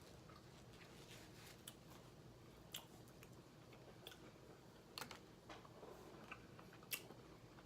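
Faint, scattered clicks and small cracks, about a dozen at irregular intervals, from crab shells being handled and picked apart while eating.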